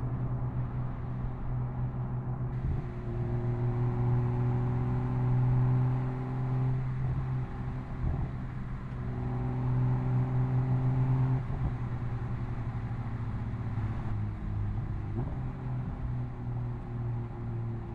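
BMW M240i's B58 3.0-litre turbocharged inline-six exhaust under light throttle, held at steady revs. It eases off briefly about seven seconds in, pulls again, then drops to a lower, quieter note a little past the middle.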